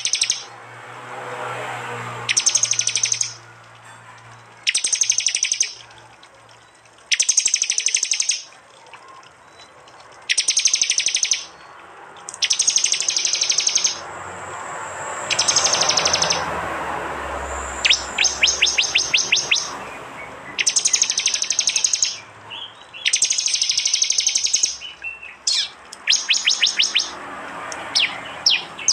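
Prenjak (prinia) birds giving loud 'tembakan' calls: short bursts of rapid high-pitched notes repeated about every two and a half seconds, with a slower run of separate sharp ticking notes a little past the middle.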